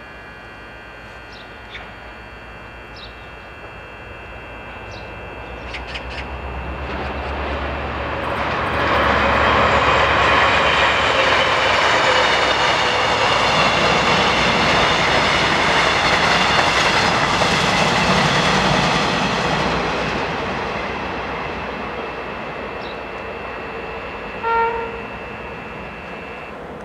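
A Korail locomotive-hauled passenger train passing: the rumble of wheels on rails builds over several seconds, stays loud for about ten seconds as the train goes by, then fades away. A brief pitched blast sounds near the end.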